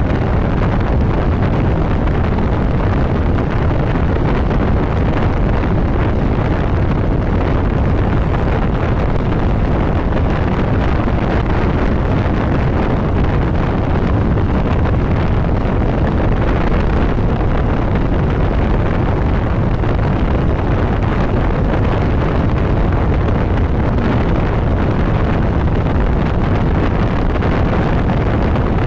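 Steady wind rush over the microphone on a moving motorcycle, with the bike's engine and road noise underneath.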